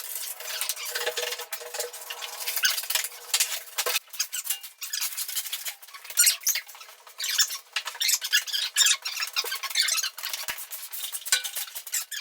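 Loose floor blocks clacking, knocking and scraping against each other as they are stacked into a tower, in an uneven run of sharp clicks and rubbing sounds with no low end.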